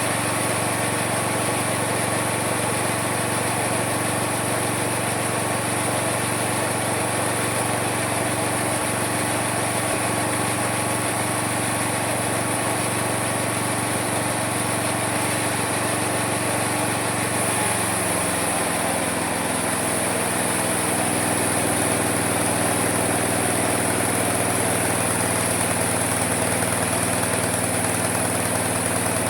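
Homemade mini sawmill running steadily with a high whine over the motor hum. About two-thirds of the way through, the pitch drops to a lower steady note and the sound gets slightly louder.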